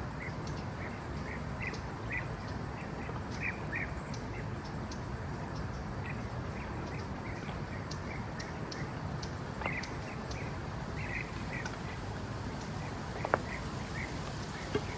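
Woodland ambience: a steady hiss with many short, chirping animal calls repeating throughout, scattered small clicks, and one sharper snap about thirteen seconds in.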